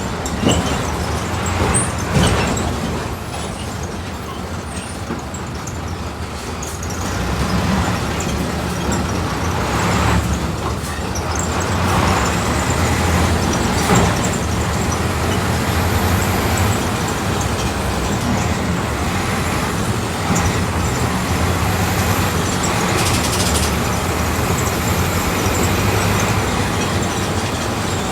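Diesel engine of a Volkswagen 17.230 OD city bus running under way, heard from inside the bus. It gets louder about a quarter of the way in, with a few sharp knocks and rattles along the way.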